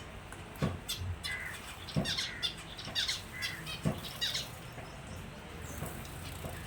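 Finches chirping in quick short calls, with a few sharp clicks among them in the first few seconds.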